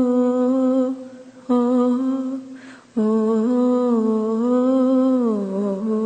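A female voice singing long wordless 'ah' notes without accompaniment: three held notes, the last sliding down in pitch near the end.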